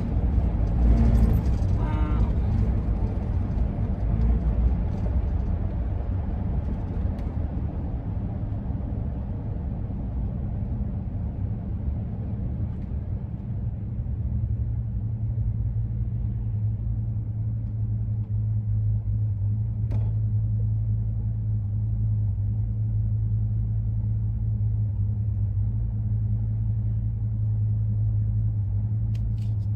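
Roof rack on a 2001 Ford E-350 van howling in the wind while driving, a steady low drone over the road rumble, heard from inside the van. It grows stronger about halfway through. The cause is unknown: the rack was taken down and reinstalled and still makes the noise.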